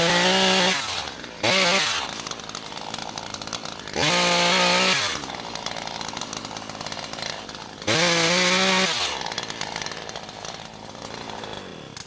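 Gas chainsaw blipped to full throttle four times, each burst about a second long, its pitch rising sharply and then dropping back to a rough idle between bursts.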